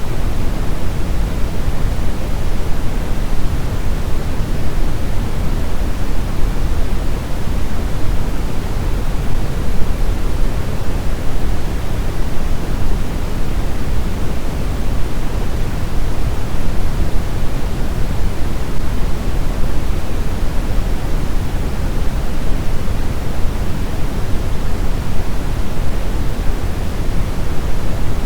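Brown noise: a steady, deep, even rushing hiss, strongest in the bass and falling off toward the treble, with no changes or events.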